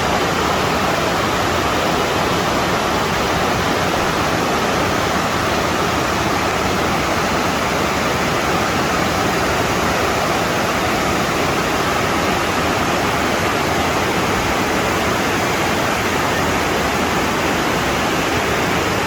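Steady rush of water falling over small cascades.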